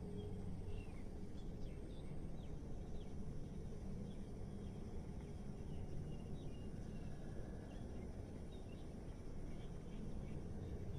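City ambience: a steady low rumble of distant traffic, with small birds chirping in short high notes scattered through it.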